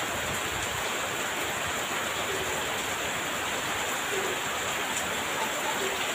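Heavy rain falling steadily in a dense, even hiss, with a few faint short chirps now and then.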